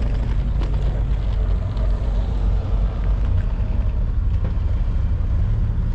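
High-speed passenger boat's engines running with a steady low rumble, heard from on board.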